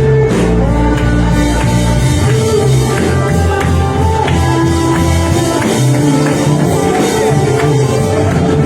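Worship band music played loud, with bass, guitar and a steady drum beat.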